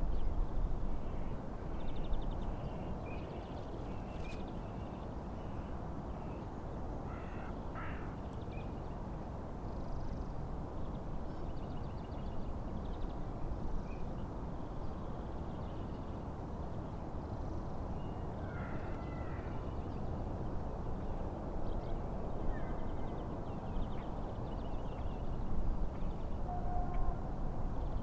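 Steady wind and lake waves, with a low rumble of wind on the microphone. Over it come scattered bird calls and chirps, with longer calls about a quarter and two-thirds of the way in.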